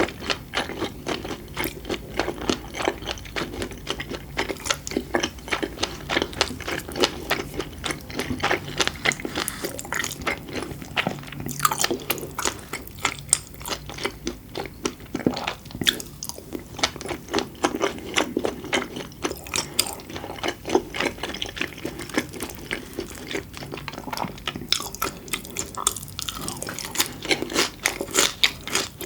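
Close-miked eating: rapid, wet clicks and pops of chewing, with occasional sharper crunches.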